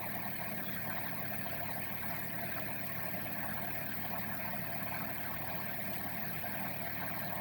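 Suzuki Wagon R's three-cylinder kei-car engine idling steadily after a remote start, with the climate-control blower running to defrost the glass.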